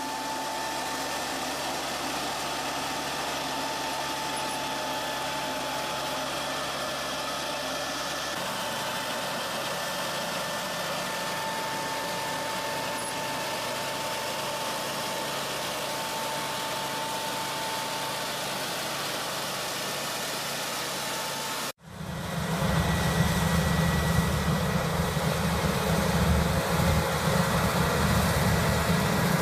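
Machinery running steadily with a faint high hum, then, after a sudden cut about two-thirds of the way through, a louder, low engine rumble from a second machine.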